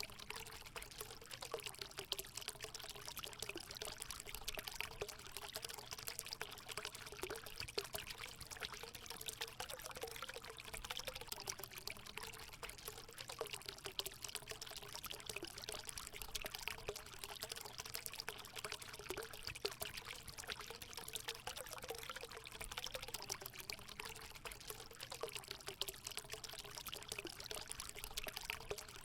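Water steadily pouring and trickling into a hot spring pool, a continuous splashing with a gurgling note.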